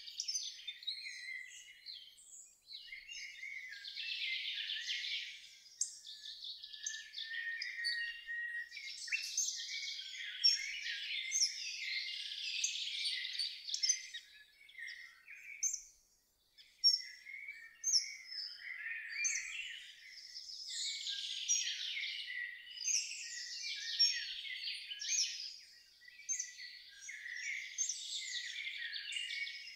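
Songbird chorus: many birds chirping and twittering at once in overlapping high calls, with a short lull about halfway through.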